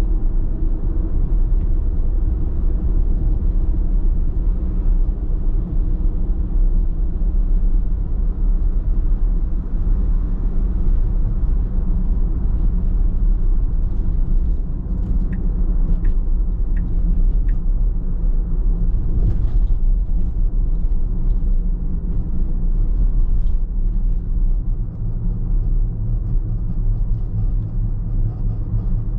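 Car driving at a steady pace: a constant low rumble of engine and tyre road noise.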